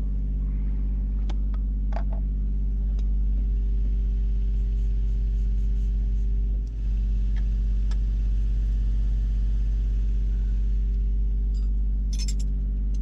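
Steady low drone of a running boat engine, with a few light clicks of tools being handled and a short metallic clatter near the end.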